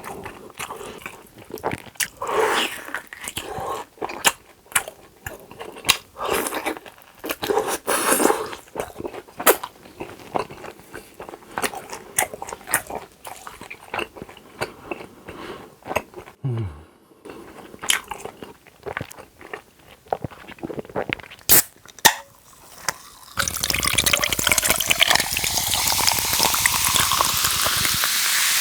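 Close-miked eating: wet chewing, biting and mouth clicks as food is chewed. Near the end a loud steady hiss starts abruptly and keeps on.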